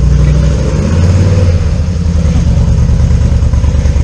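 Yamaha V-Star 950's V-twin engine running on the move, a loud low rumble whose pitch drops about a second in.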